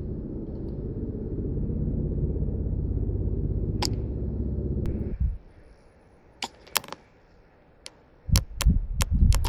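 Steady low rumble of wind buffeting the microphone that cuts off suddenly about five seconds in. It is followed by a quiet stretch with scattered sharp clicks, then a run of low thuds and clicks near the end.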